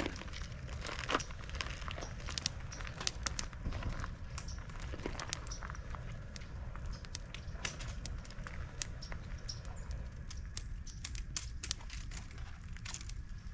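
Irregular small crackles and snaps, many per second at times, over a steady low rumble, as a campfire is being started from kindling.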